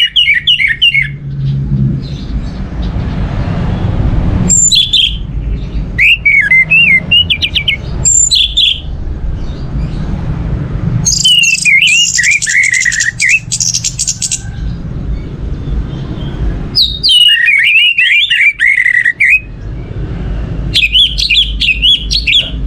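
Orange-headed thrush (anis merah) singing loud bursts of fast, warbling whistled phrases, about seven song bouts separated by short pauses, over a steady low background rumble.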